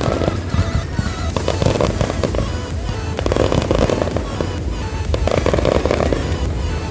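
Fireworks crackling and bursting, many small sharp pops close together, over music.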